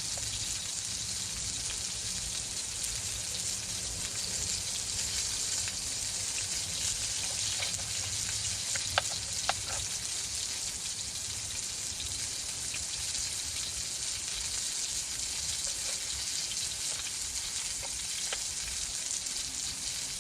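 Food sizzling steadily as it fries in a pan over a campfire, with two short sharp clicks about nine seconds in.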